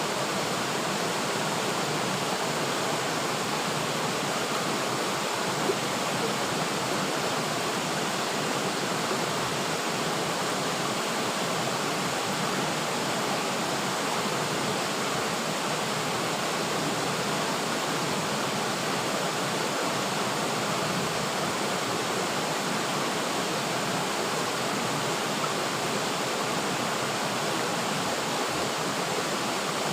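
River water flowing and rushing steadily, an even, unbroken wash of water noise.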